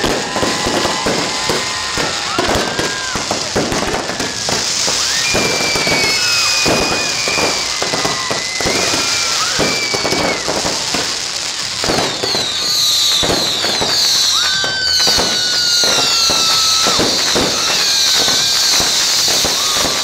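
Fireworks display: a dense run of bangs and crackles with several high whistles, turning about twelve seconds in into a thick, continuous high crackling hiss.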